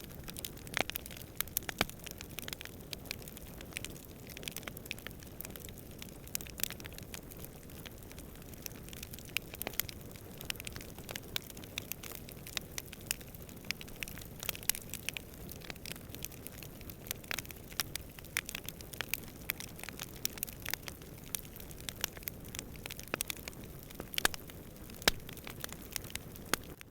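Campfire crackling: many sharp, irregular pops and snaps of burning wood, some louder than others, over a steady low rumble of distant wind.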